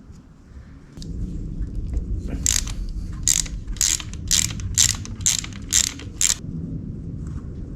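Hand ratchet wrench clicking through about eight quick strokes, roughly two a second, over a low handling rumble.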